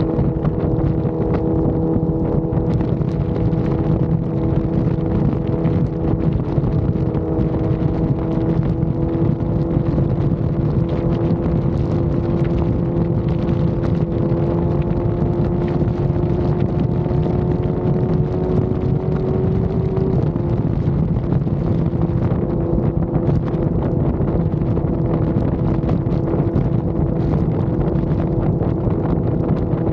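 Motorcycle engine running at steady freeway speed, its pitch creeping slowly upward and then dropping suddenly about two-thirds of the way through, under heavy wind rumble on the microphone.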